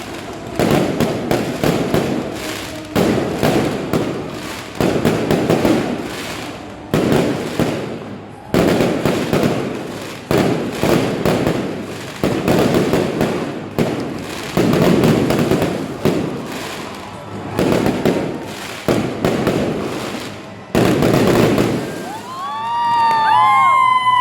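Fireworks bursting one after another, sharp bangs each trailing off in a crackle, about one every second or two. Near the end several whistling fireworks sound together, their whistles rising and then falling.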